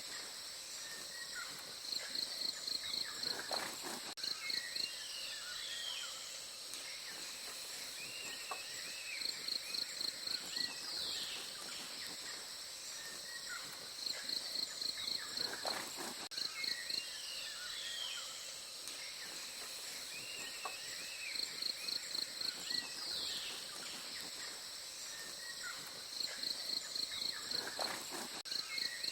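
Forest ambience: a steady high insect drone throughout, and a quick series of high chirps that comes back every six or seven seconds. Scattered short bird calls fall between the chirp series.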